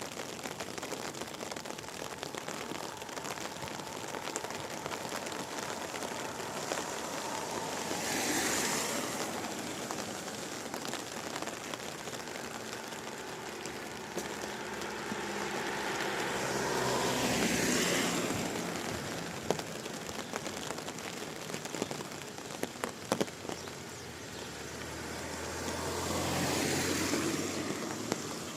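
Steady rain, with vehicles passing three times on the wet road, their tyre hiss swelling and fading: once about a third of the way in, most loudly a little past the middle, and again near the end.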